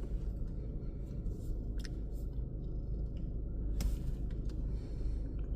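Low, steady rumble of a car engine idling as the car creeps forward, heard from inside the cabin, with a few faint clicks; the clearest comes about four seconds in.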